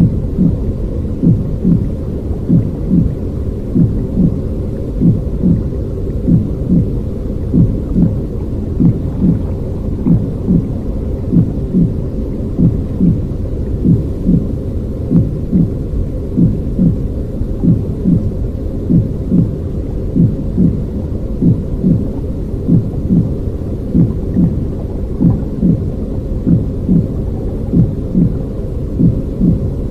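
Baby sleep noise track: a deep, muffled rumbling noise with a steady heartbeat-like pulse a little under two times a second, in the manner of womb sounds.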